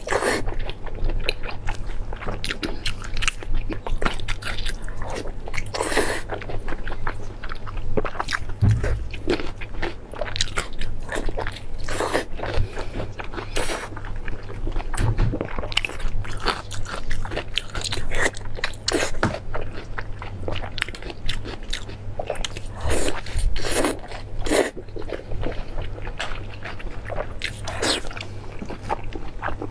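Close-miked biting and chewing of a braised pork intestine roll: an irregular run of sharp clicks and smacks from the mouth and food.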